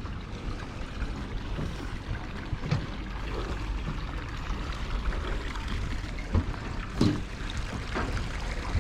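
Marina ambience: a steady low rumble with trickling water and a few soft knocks, the loudest about seven seconds in.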